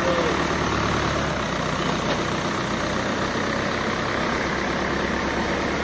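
Heavy diesel construction machinery engine running steadily with an even low rumble.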